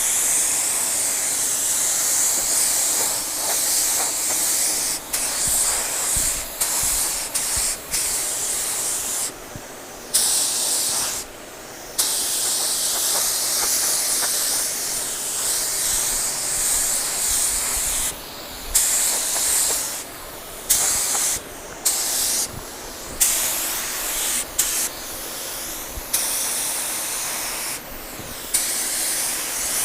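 Clear coat being sprayed onto an engine block: a loud high-pitched hiss of paint spray that stops and starts again many times, in short breaks of a fraction of a second to about two seconds, as the spray is released and triggered again.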